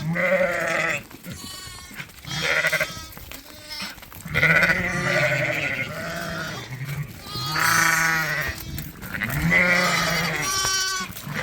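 Sheep bleating, ewes and lambs calling back and forth: about half a dozen separate calls, some long and deep, others higher.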